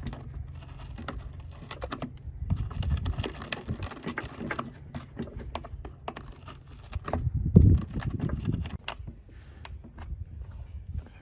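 Irregular small clicks, taps and rattles of metal parts and hand tools being handled, with a louder knock about seven and a half seconds in.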